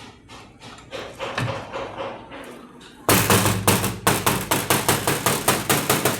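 Rapid, regular knocking, about six strikes a second, that starts loud about three seconds in over a steady low hum, after fainter ticking.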